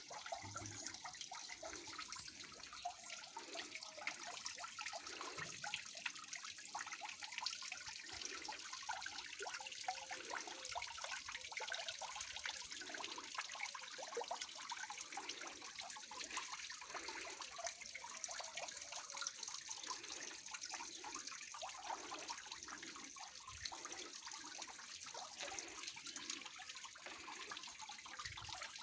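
Water from a small waterfall splashing and trickling steadily, with soft gurgles underneath.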